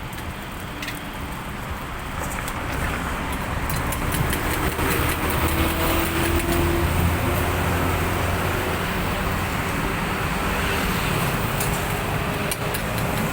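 Road traffic: a motor vehicle engine running close by, its drone getting louder a few seconds in, over steady traffic noise.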